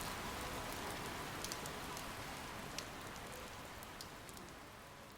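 Rain ambience: steady rain with scattered sharp drop ticks, slowly fading out.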